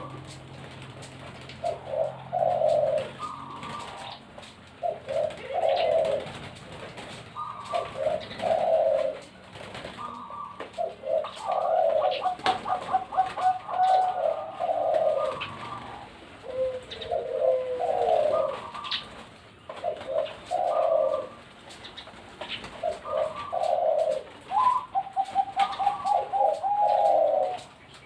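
Zebra doves (perkutut) cooing: repeated phrases every two to three seconds, some with a fast staccato run of short notes, the calls at times overlapping.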